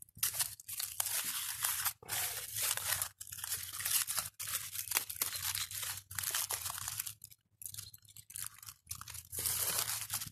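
Aluminium foil crinkling and tearing in irregular bursts as a foil-wrapped fish parcel, just taken from the campfire coals, is opened.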